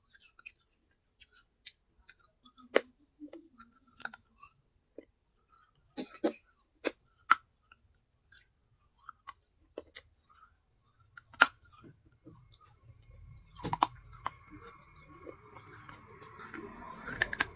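Pieces of a baked clay handi pot being bitten and chewed close to the microphone: a series of separate sharp crunches and clicks. A low steady hum comes in during the second half.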